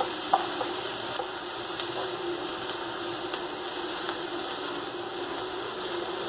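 Chopped onion sizzling gently in olive oil in a frying pan, sweating until translucent before sugar goes in to caramelize it. A steady low hum runs underneath, and there are a couple of light utensil clicks in the first second.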